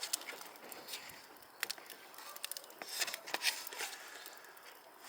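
A wood and charcoal fire crackling, with irregular sharp pops and a brief flurry of louder crackles about three seconds in.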